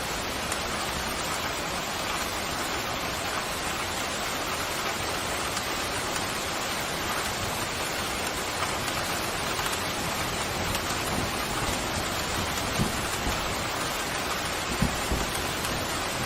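Steady, heavy rain pouring down in a dense, even hiss, with a few brief low thuds in the second half.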